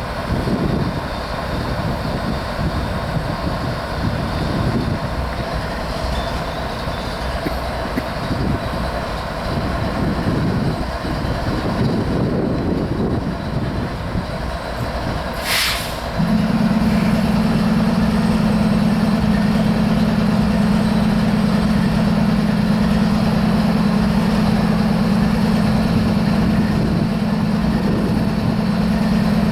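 Diesel locomotive at close range: low rumbling at first, a short air hiss about fifteen seconds in, then a loud steady low engine drone.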